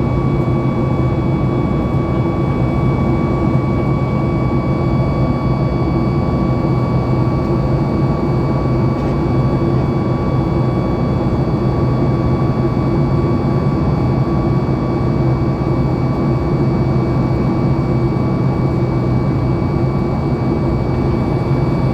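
Steady cabin noise of a Boeing 737 MAX 8 climbing, heard inside the cabin: the constant rush of air and the hum of its CFM LEAP-1B engines, with a few steady tones running through it.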